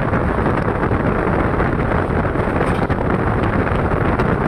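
Passenger train running at speed, heard from an open door: a loud, steady rush of wind and running noise.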